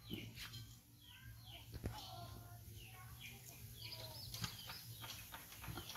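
Birds chirping: short, falling calls repeated every half second or so, with a busier run of quick chirps and clicks in the second half.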